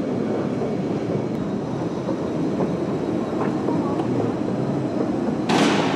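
Thalys high-speed train running with a steady rumble, and a brief hiss near the end.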